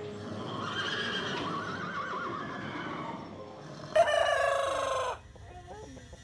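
A rooster crowing, with a loud held call about four seconds in that ends abruptly just after five seconds.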